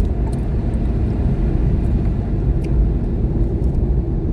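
Steady low rumble of a car being driven on a snowy road, with engine and tyre noise heard from inside the cabin.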